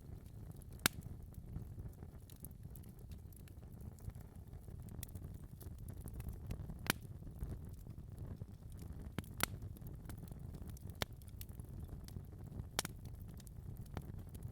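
Wood fire in a fireplace crackling: frequent sharp pops and snaps, a few much louder than the rest, over a steady low rumble of the flames.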